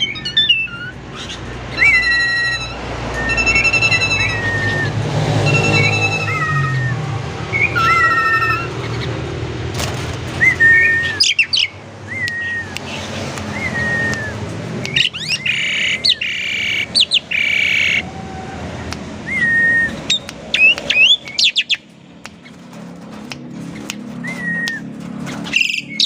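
Asian pied starling singing a varied song of repeated clear whistled notes, each with a short pitch glide, with a harsher, denser run of calls around the middle.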